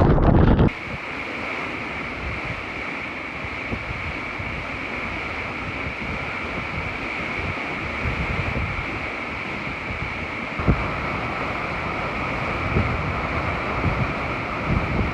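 Typhoon wind and torrential rain. Heavy wind buffeting on the microphone cuts off less than a second in, giving way to a steady hiss of wind-driven rain and spray with a high whistling edge, broken by a few brief gusts thumping the microphone.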